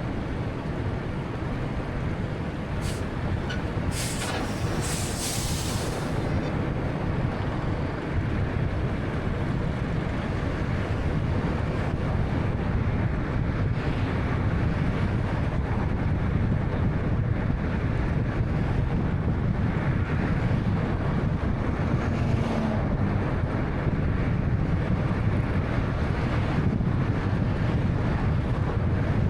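Car driving at speed: steady low road and tyre noise with the engine beneath it, growing slightly louder. A few short hissing sounds come about four to six seconds in.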